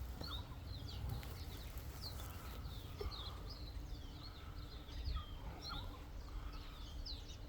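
Small birds chirping: many short, high, quick chirps, one after another, over a steady low rumble.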